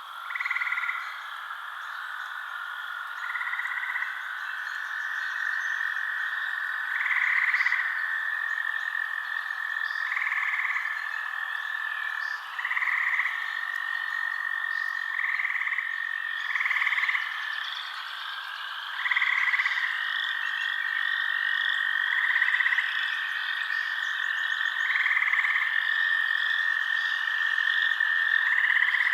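Frogs calling in a night chorus, short croaks repeating every two to three seconds over a steady high-pitched trill and a dense, chirring background.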